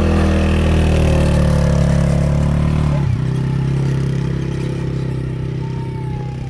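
Quad bike (ATV) engine running loud and steady, then its revs drop sharply about three seconds in as the throttle comes off, settling to a lower steady note.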